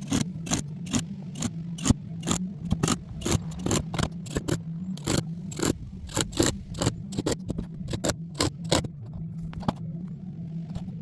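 Irregular sharp knocks, about two or three a second, over a steady low hum.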